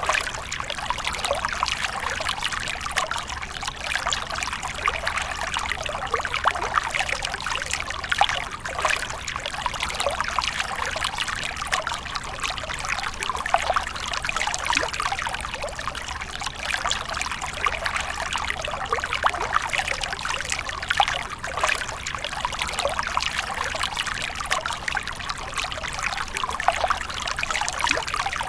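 Water splashing and trickling continuously, a steady wash of many small splashes.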